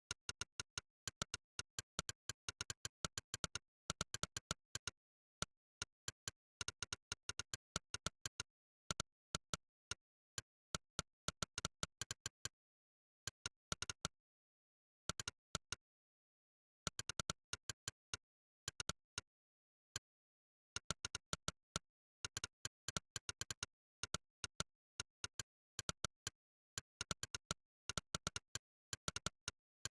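Monkeytype's synthetic "click" keystroke sound, one short sharp click for each key typed, coming in quick irregular runs of several clicks a second with short pauses between them and longer breaks of a second or so about halfway through.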